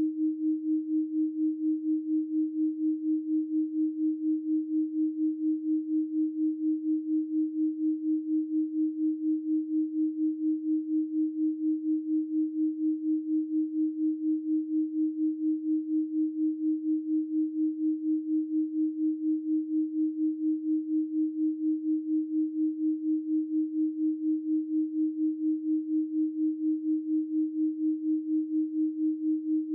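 Electronically generated 312 Hz pure sine tone, held at one pitch with its loudness pulsing evenly a few times a second.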